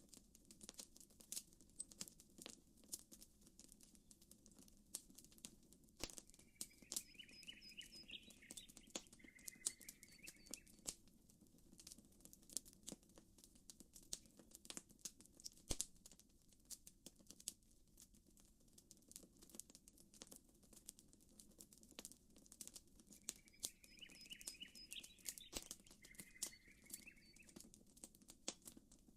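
Campfire crackling, with frequent sharp pops and snaps over a faint low steady background. A bird's short series of chirping calls comes twice, about six seconds in and again near the end.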